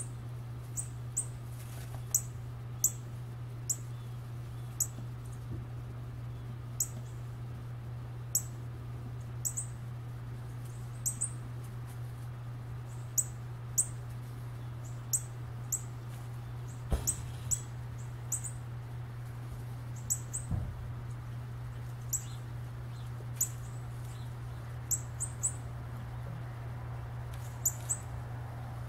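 A bird calling in short, very high chirps, roughly one a second and unevenly spaced, over a steady low hum.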